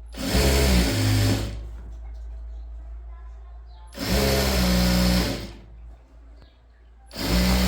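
Electric sewing machine running in three short spurts of about a second and a half each, with pauses between: stitching a seam in bursts.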